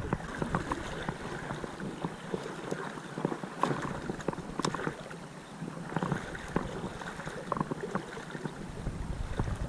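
Creek water running and splashing, with many small irregular splashes and ticks.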